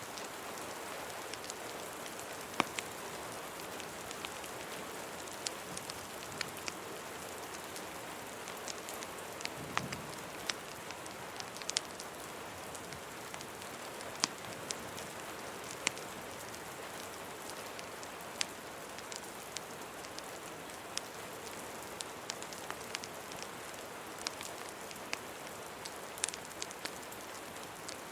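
Steady rain hiss layered with a crackling wood fire: sharp, irregular pops and snaps scattered over the rain.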